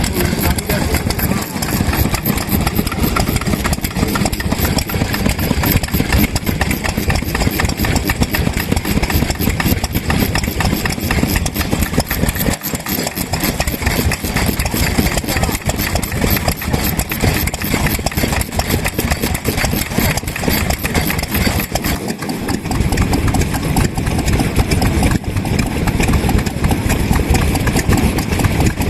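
Vintage stationary kerosene engines running, a fast, steady, continuous chuffing of firing strokes.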